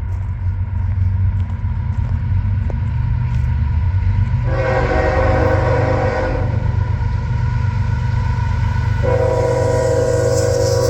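Locomotive air horn sounding two long blasts, one about halfway through and one near the end, over the steady low rumble of an approaching train.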